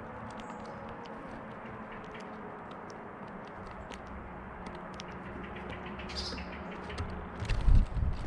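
Outdoor garden ambience: a steady low hum with scattered faint ticks and short high bird calls. A loud low rumble comes near the end.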